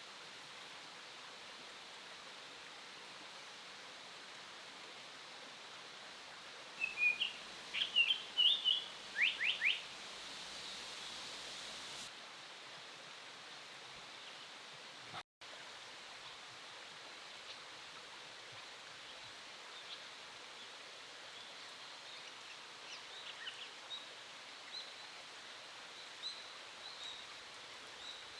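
Japanese paradise flycatcher calling: a quick run of short high notes about seven seconds in, ending in three fast falling notes, then fainter chirps near the end, over a steady hiss. The sound drops out briefly midway.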